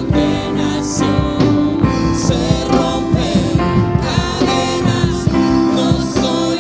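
Worship music: singing over a band accompaniment with sustained held chords and a steady drum beat.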